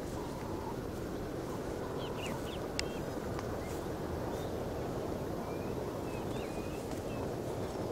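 Birds chirping now and then over a steady low background rumble, with one sharp click a little under three seconds in.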